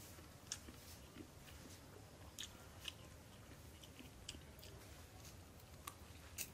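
An elderly man chewing a mouthful of chicken biryani, faint, with about half a dozen sharp wet mouth clicks and lip smacks scattered through it.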